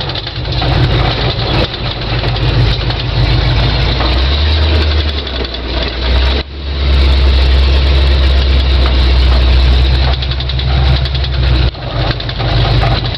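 1974 Ford F100's 351 Windsor V8 running through Flowtech headers. The engine note dips sharply about six seconds in, then holds a steadier, deeper note until it changes again near the end.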